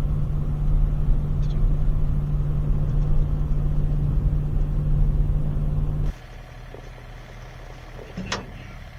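Steady low rumble of engine and road noise inside a moving vehicle. About six seconds in it cuts off abruptly to a much quieter steady hum, with one brief sharp sound near the end.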